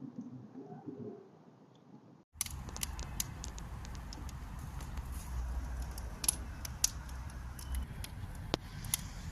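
Wood fire burning in a steel fire bowl, crackling with many sharp pops over a steady hiss and low rumble. It starts abruptly a couple of seconds in, after a quieter stretch.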